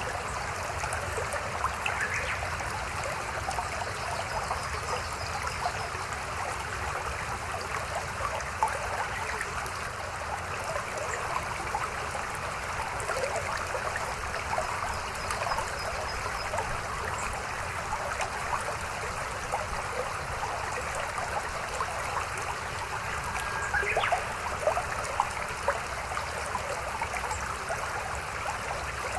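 A small river babbling: a steady, continuous rush of flowing water with little splashes throughout.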